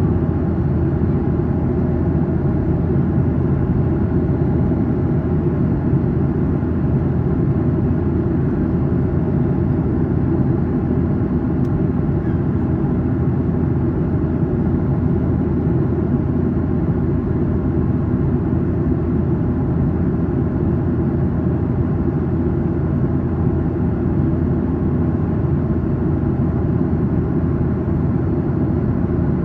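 Steady cabin drone of a Boeing 737-800 in flight: engine and airflow noise heard from inside the passenger cabin, deep and even, with no change in level.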